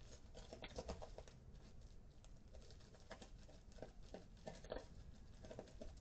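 Faint chirping of birds: short calls in loose clusters, a little louder about a second in and again near the end.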